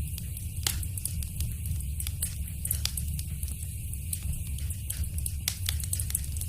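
Wood fire crackling in a fireplace: frequent small sharp pops over a steady low rumble and hiss, with two louder pops, one just under a second in and one near the end.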